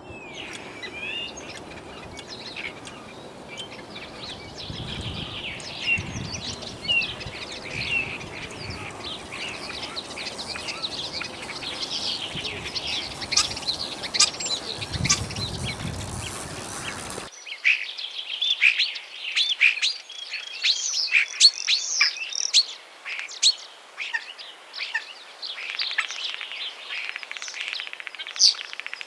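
Common starling singing a long, varied song of whistles, glides, clicks and rapid chatter. A low background noise under the song stops abruptly a little past halfway, after which the song goes on more clearly.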